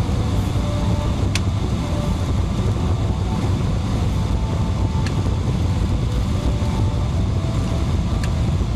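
Steady low rumble of cabin noise inside a Boeing 777-300ER airliner, engine and airflow noise, with three faint clicks spread through it.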